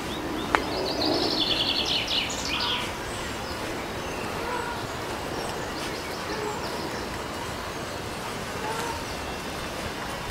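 A songbird's rapid run of high chirps lasting about two seconds near the start, over a steady background hiss, with one sharp click about half a second in.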